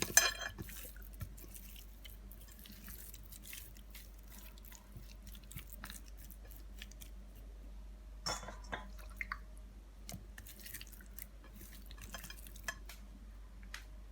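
Quiet kitchen handling: scattered light clicks, taps and crinkly rustles, with small clusters right at the start and again about eight and eleven seconds in.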